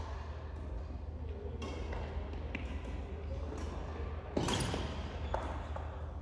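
Badminton rally in a sports hall: racket strikes on the shuttlecock and thuds from the players' footwork, with the loudest smack about four seconds in. A steady low hum runs underneath.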